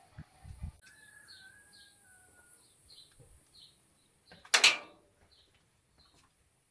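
A small bird chirping in a quick repeated series, about three chirps a second, over a steady high hiss. About four and a half seconds in, a sudden loud, harsh noise lasting about a third of a second.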